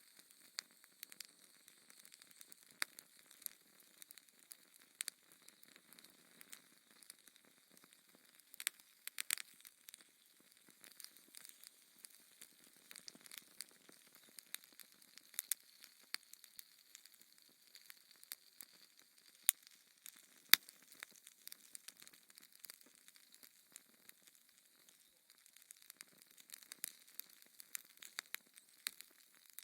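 Wood fire crackling in a fireplace: a faint hiss under frequent irregular snaps and pops, with one sharper pop about twenty seconds in.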